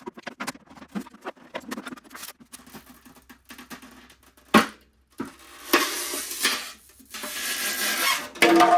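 An oven-heated headlight being pried apart with a small pry tool: plastic clicking and creaking, a sharp snap about halfway through, then scraping and rustling as the lens works loose from the housing.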